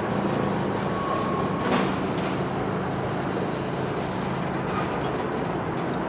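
Diesel locomotive running with a steady low engine hum while working a cut of rail cars, with one sharp knock a little under two seconds in.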